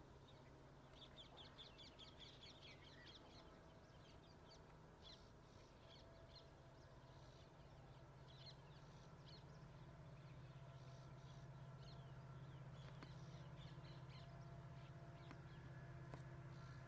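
Faint birds calling outdoors: many short, quick chirps, busiest in the first few seconds, over a low steady hum that slowly grows louder.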